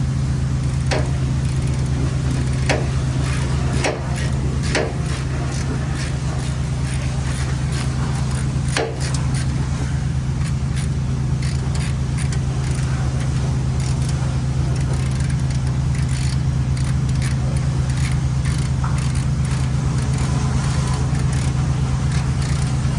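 An engine running steadily at idle, with several sharp clicks and knocks in the first nine seconds.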